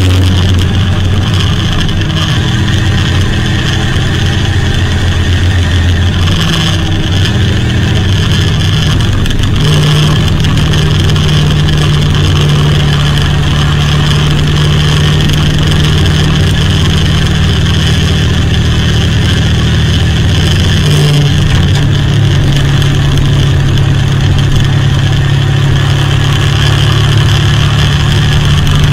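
Buckler 90's 1172 cc Elva-Ford overhead-valve four-cylinder engine running loud and steady under load, climbing a hill at speed. Its note steps up in pitch a couple of times as the revs rise.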